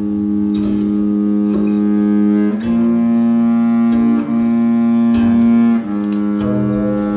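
Violin and acoustic guitar improvising together. The violin holds long low bowed notes that change pitch every second or two, while the guitar adds sparse plucked notes.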